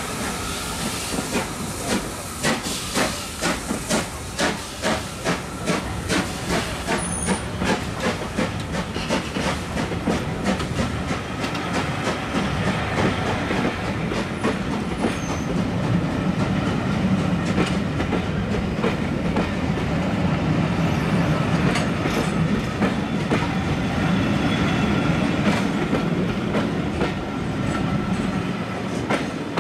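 Railway passenger coaches rolling slowly past, their wheels clicking over rail joints about twice a second at first, then merging into a steady rumble that grows louder and eases near the end.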